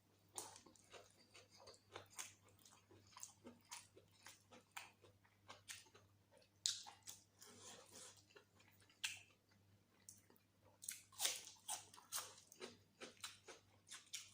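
Close-miked eating sounds: chewing, wet mouth smacks and irregular clicks from someone eating mutton curry with rice. A faint steady low hum lies underneath.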